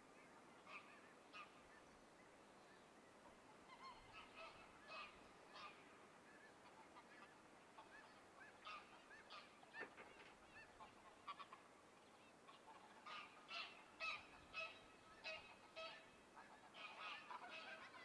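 Faint bird calls, many short pitched calls coming in loose bouts, busiest near the end, over a quiet steady background hiss.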